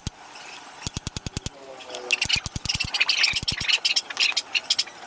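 Hammer tapping a new wheel bearing into a mag wheel hub through a flat driver, metal on metal, in rapid runs of light strikes with short pauses between.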